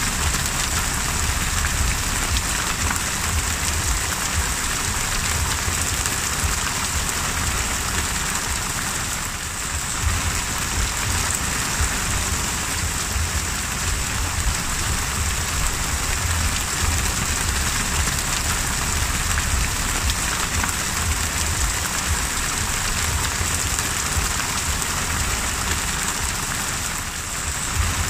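Heavy rain falling on the open sea, a dense steady hiss of drops striking the water, with a low rumble underneath. It eases slightly for a moment about nine seconds in and again near the end.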